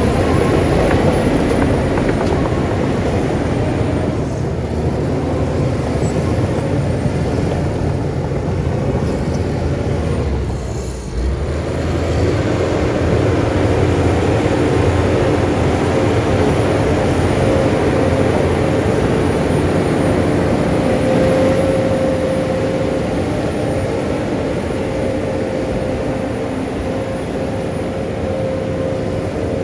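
Heavy diesel earthmoving machinery running steadily and loudly, with a brief dip in level about eleven seconds in.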